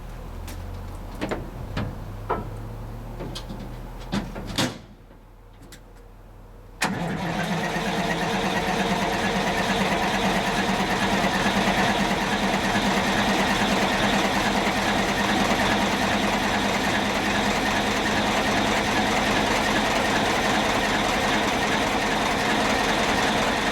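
A few clicks and knocks, then the 1972 Terex loader's Detroit Diesel 4-71 two-stroke diesel starts cold with no block heater or glow plugs, catching suddenly about seven seconds in and running steadily after that.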